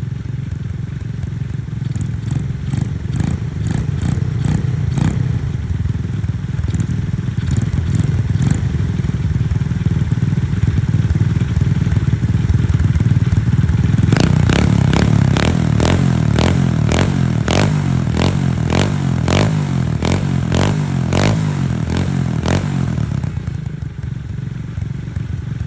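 Honda Monkey minibike's small single-cylinder four-stroke engine running steadily. Several sharp cracks come early, and a longer run of cracks, about two a second, comes through the second half.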